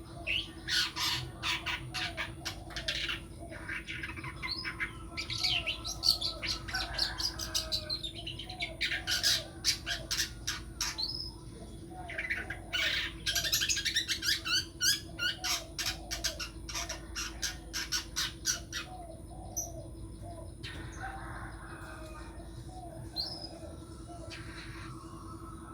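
Long-tailed shrike (cendet) singing in bursts of rapid, harsh, scratchy notes separated by short pauses. The bursts thin out in the last third.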